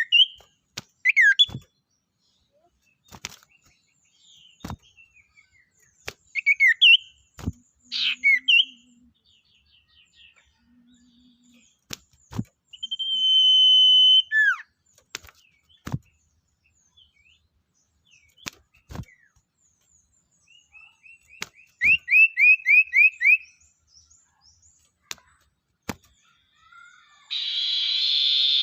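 Sirtu songbird calling: sharp falling whistles, a held whistle midway, a quick run of about eight chirps, and a harsh buzzing note near the end, with scattered short clicks between.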